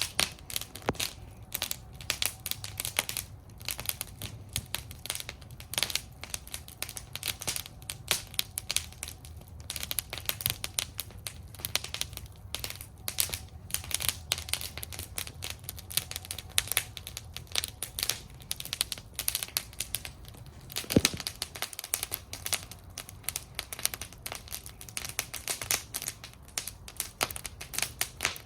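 Wood campfire burning in a fire bowl, crackling continuously with dense small pops over a low steady rumble of flame, with one louder pop about three quarters of the way through.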